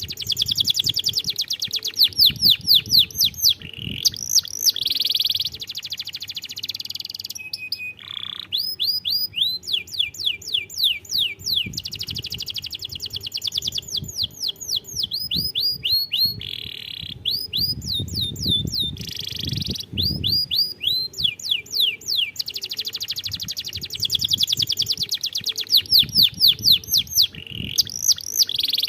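Canary singing without a break: fast runs of quick downward-sweeping notes alternating with dense rolling trills, with a few brief changes of phrase, over a low background rumble.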